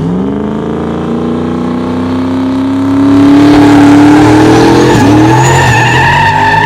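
A car engine revs up sharply and is held at high revs, its note creeping slowly upward with a brief dip about five seconds in. Tyres squeal from about three seconds in, the loudest part, as in a burnout or hard launch.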